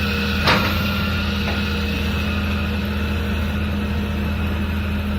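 Diesel engine of heavy construction machinery, an excavator or dump truck, running steadily at a low drone. A single sharp knock comes about half a second in.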